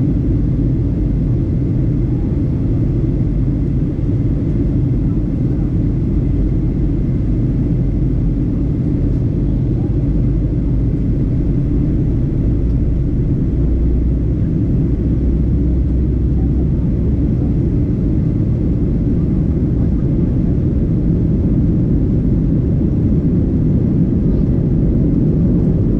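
Steady low rumble of a Southwest Airlines Boeing 737-800 heard from inside the passenger cabin: engine and airflow noise at an even level.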